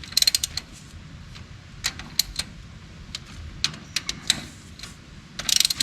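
Hand tools working on the tractor: a quick run of clicks near the start and another near the end, with single sharp metal clicks and clinks between.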